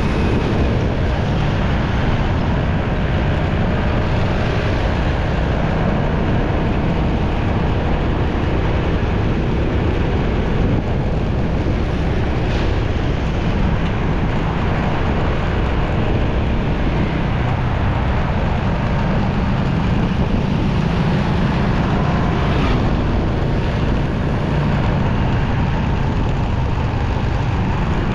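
Steady, loud low rumble of riding a motorcycle through city traffic: engine, road and wind noise on the rider's microphone mixed with surrounding traffic.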